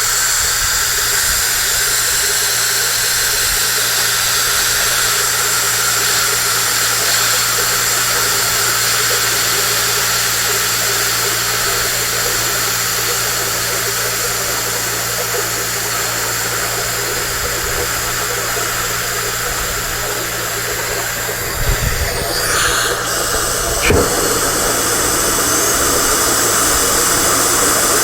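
Compressed air hissing steadily over the low hum of an electric air compressor motor, agitating vinegar in a water heater. A few knocks and a change in the hiss come about 22 and 24 seconds in.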